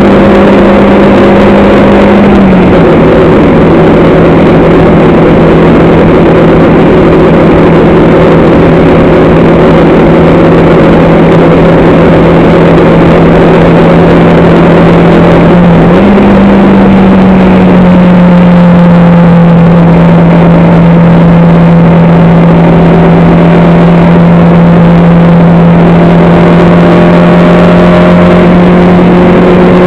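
Race car engine heard on board, very loud, held at nearly steady revs with a steady rush of wind and road noise; the pitch drops a little about two and a half seconds in and rises back about sixteen seconds in.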